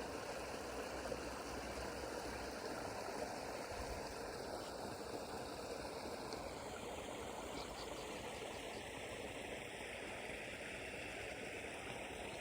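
Low, steady rush of running water from a small creek.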